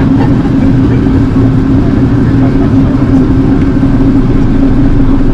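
Airbus A380 cabin noise in flight: a loud, steady drone of engines and airflow with a constant low hum.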